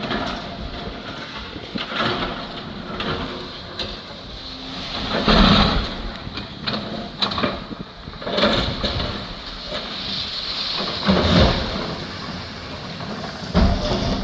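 Building demolition: several heavy, irregular crashes and rumbles of masonry being broken and falling, over a steady noisy background.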